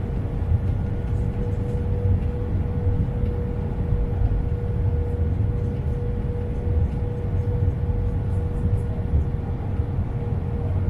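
Airbus A320 cabin noise in flight: the steady roar of the engines and airflow with a constant droning tone, heard from a seat over the wing during the descent.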